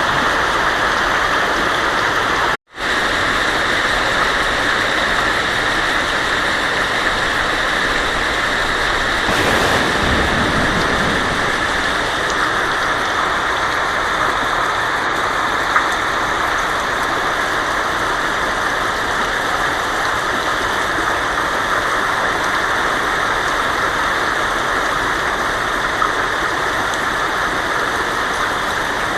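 Heavy rain drumming steadily on a tin roof, a dense even hiss. It cuts out for an instant about three seconds in, and a faint low rumble swells briefly around ten seconds in.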